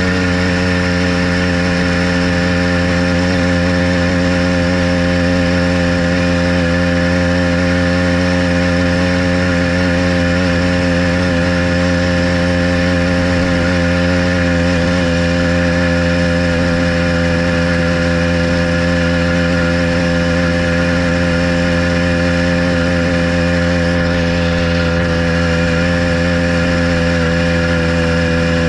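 Motorized bicycle's small engine running steadily under way at an almost constant engine speed.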